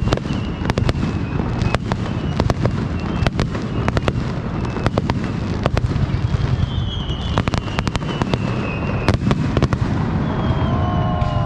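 Aerial fireworks display: a rapid, irregular run of sharp bangs and crackles over a continuous low rumble of shell bursts, with a few faint high whistles.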